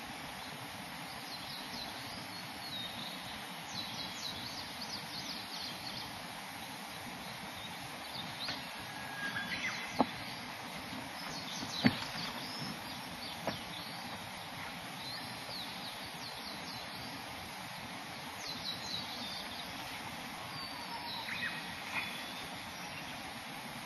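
Small birds chirping and trilling on and off over a steady outdoor noise, with three sharp knocks in the middle stretch.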